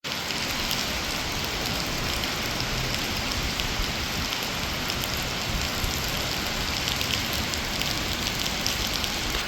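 Heavy rain falling steadily: a dense, even hiss of rain with many small drop ticks.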